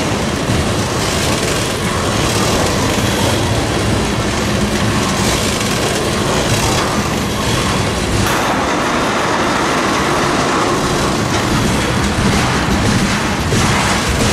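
Train rolling past close by: a loud, steady rumble and rail noise from its wheels on the track, which grows harsher about eight seconds in.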